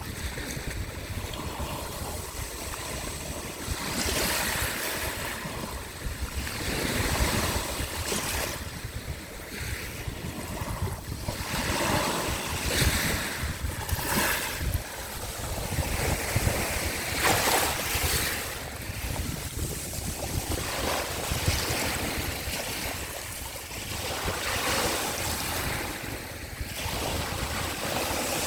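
Small sea waves breaking and washing on the shore in repeated surges every second or two, with wind rumbling on the microphone.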